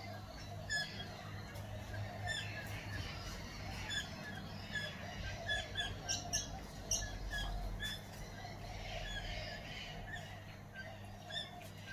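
Wild birds calling with many short, high chirps and squawks overlapping throughout, over a steady low hum.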